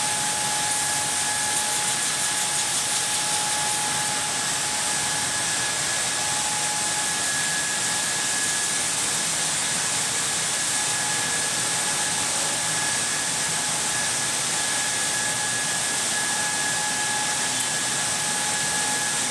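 Hydraulic taphole drilling machine at work on a blast furnace taphole: a loud, steady hiss with a steady high whine over it.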